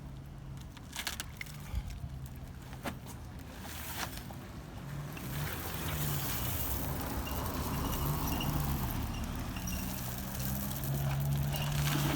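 A motor vehicle's engine running with a low hum, getting louder over the second half, with a few sharp clicks in the first three seconds.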